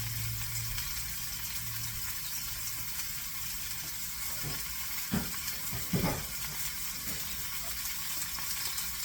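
Butterflied chicken sizzling as it sears skin side down in hot oil in a pan: a steady frying hiss, with two short knocks about five and six seconds in.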